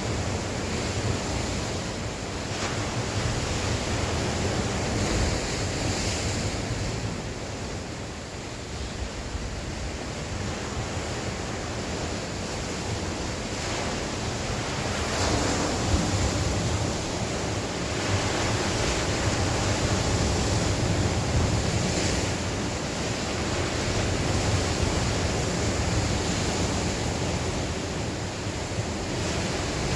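Sea waves breaking and washing on the shore, the surf rising and easing every few seconds, with wind buffeting the microphone in a low rumble.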